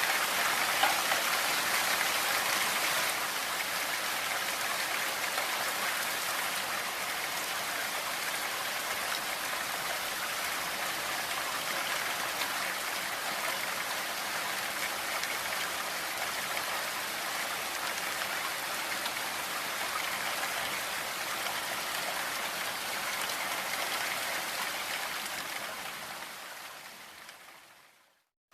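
Steady rain, a dense even hiss of drops with no distinct impacts, mixed for relaxation with pink noise. It fades out to silence over the last couple of seconds.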